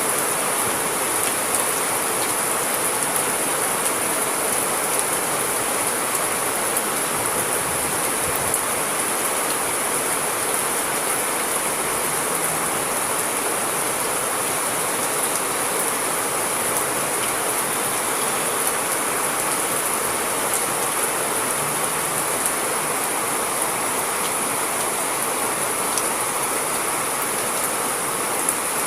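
Steady rain: an even, unbroken hiss with faint scattered ticks of drops.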